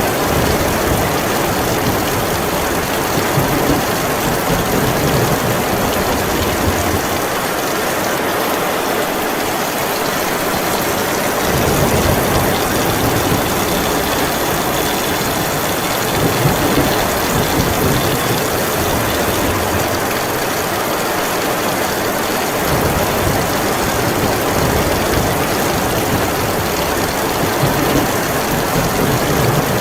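Heavy rain pouring steadily in a thunderstorm, with a deep low rumble underneath that swells and fades, dropping away twice for a few seconds.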